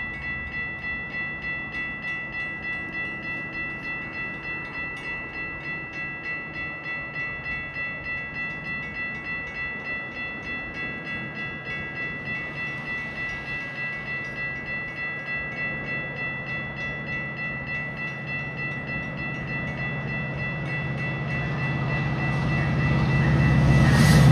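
A warning bell rings steadily, about twice a second, as a non-stopping Metra outbound train approaches. The train's rumble grows louder over the last few seconds and is loudest as it reaches the station at the very end.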